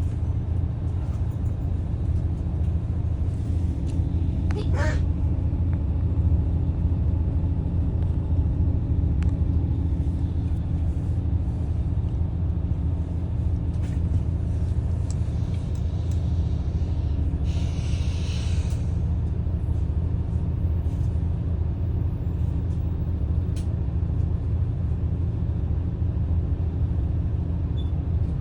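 Daewoo FX116 coach's diesel engine running steadily under way, a constant low drone heard from inside the bus. There is a brief squeal rising in pitch about five seconds in, and a short hiss of air about 18 seconds in, typical of the bus's air brakes.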